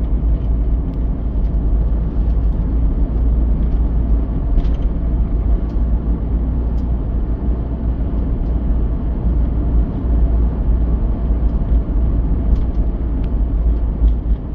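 Steady low rumble of a vehicle driving, without letup.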